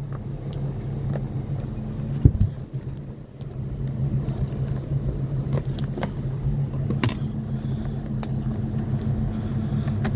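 An engine running steadily at idle, a low even hum, with one heavy clunk about two seconds in and a few light clicks later.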